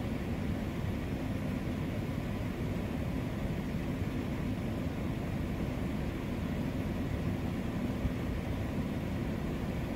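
Steady low rumble of an idling car, heard from inside the cabin.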